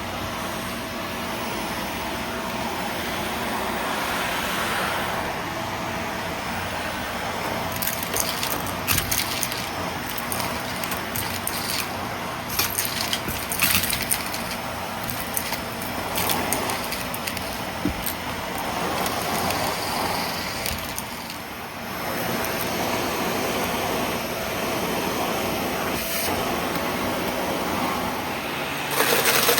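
Vacuum cleaner running steadily, with scattered crackles and rattles of debris being sucked up, busiest about a third of the way in, and a brief dip in the motor sound a little past the middle.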